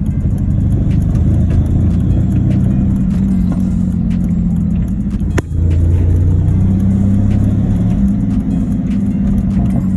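Turbocharged BMW E46 driving along, its engine and road noise making a steady drone, with a short click and a brief drop in level about five seconds in. The owner believes the engine is knocking and blown.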